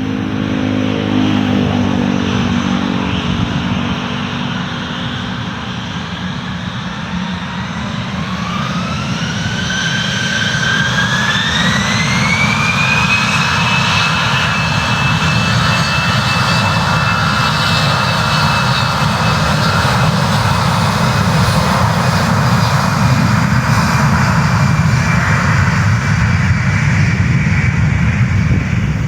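Airbus A320-214's CFM56 turbofan jet engines spooling up for takeoff: a whine rises in pitch over about five seconds, then holds steady over a loud rumble that grows toward the end.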